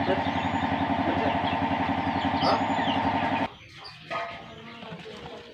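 A small motor running steadily with a fast pulsing beat, cutting off abruptly about three and a half seconds in. Small birds chirp over it.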